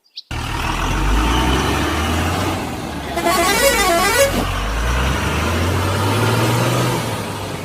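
Vehicle engine running with a steady low hum, with a warbling horn that rises and falls a few times for just over a second about three seconds in.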